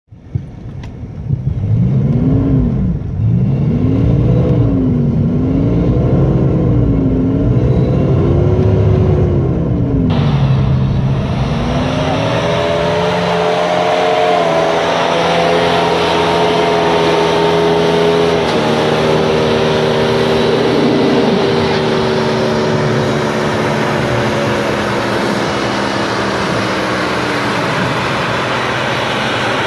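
An off-road 4x4's engine is revved up and down over and over, the pattern of a vehicle trying to get traction. About a third of the way in, a loud rushing noise joins it, and the engine holds at high revs before slowly easing off.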